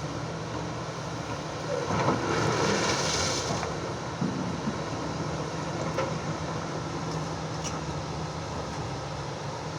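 Excavator diesel engine running steadily at work, with a louder rushing noise for over a second about two seconds in and a few light knocks later.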